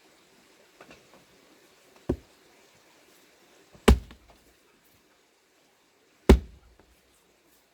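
Three heavy splitting blows struck into a plane tree log, the first lighter, about two seconds apart, each a sharp chop with a short ring.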